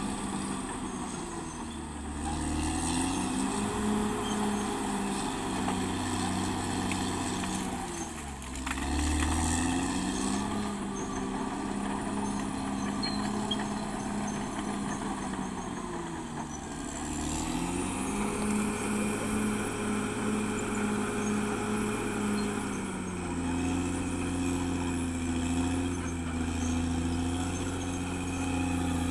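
Caterpillar D6R XL bulldozer's diesel engine working, its pitch climbing and dropping about three times as engine speed rises and falls.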